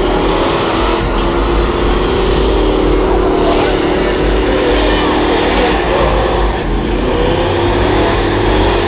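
Honda Civic engines held at high revs in a burnout, their pitch wavering slightly over a dense, steady noise.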